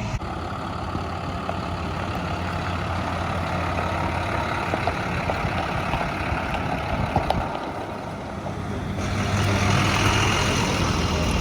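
Truck engine running steadily with road noise; it grows louder about nine seconds in.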